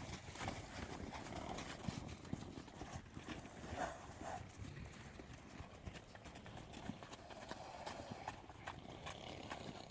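Horse hooves striking the ground as loose horses move about, an irregular run of hoofbeats.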